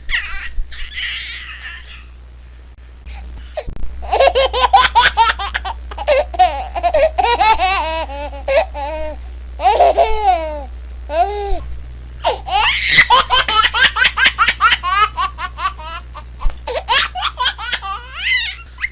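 A baby laughing: two long bouts of rapid, high-pitched laughter, the first starting about four seconds in and the second after a short pause near the middle, over a faint low hum.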